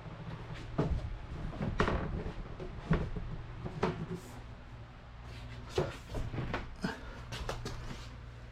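Irregular knocks and clatters, about ten of them spread unevenly, like hard objects being handled and set down during work in a small enclosed space, over a steady low hum.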